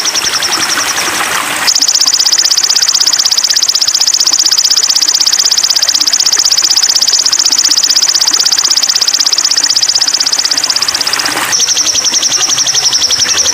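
Small songbird's rapid, high-pitched trill from a bird-tutoring (masteran) recording. The trill runs continuously and steps up to a higher, steadier pitch about two seconds in, then drops back to the lower trill near the end.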